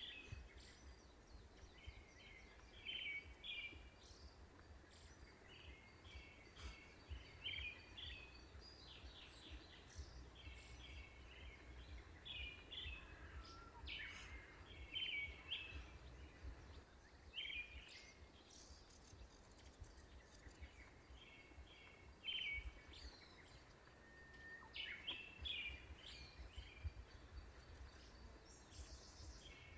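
Birds chirping faintly in frequent short, high calls, over a low steady outdoor background.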